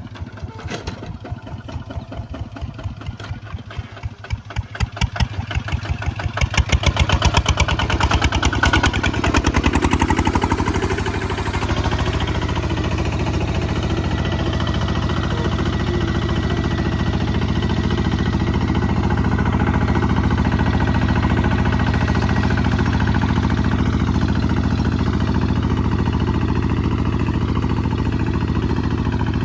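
Kubota ZT155 DI single-cylinder diesel engine chugging slowly with each firing stroke distinct, then speeding up and getting louder over about ten seconds, and running steadily at the higher speed after that.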